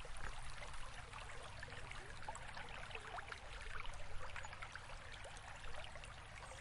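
Faint trickling water, a steady wash with many small drips and splashes.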